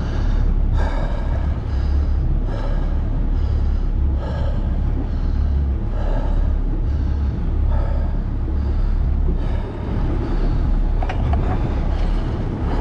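Steady low rumble of a sport-fishing boat's engine during a fight with a big bluefin tuna. Over it, a sound recurs about every second and a half, in rhythm with the angler pumping the rod and winding the reel.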